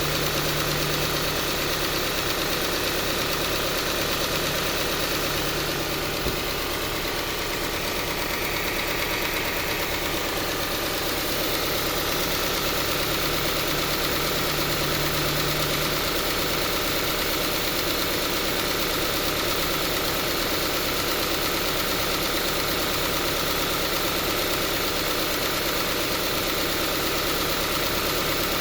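Subaru Forester's CB18 1.8-litre turbocharged flat-four engine idling with a continuous tappet-like ticking that does not go away. The owner takes it for a sign that the engine has failed.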